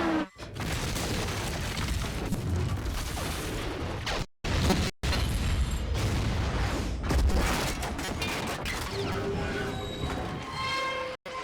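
Film sound effects of a train derailment: repeated explosions and booms with crashing, scraping metal wreckage, under a dramatic film score. The sound drops out suddenly a few times.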